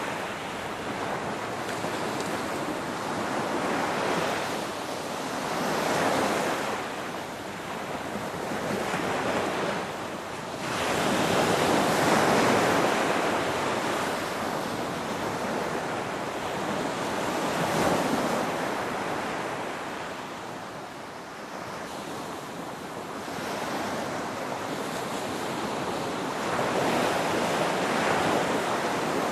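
Ocean waves breaking and washing on a shore, a continuous surf rush that swells and recedes every few seconds, with the loudest surge about twelve seconds in.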